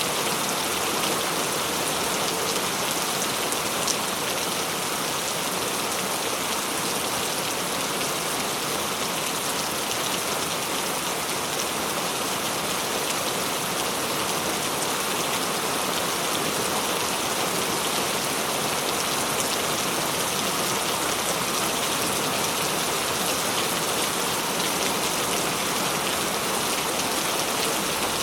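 Steady heavy rain falling on a surface, a constant even hiss of drops with no thunder.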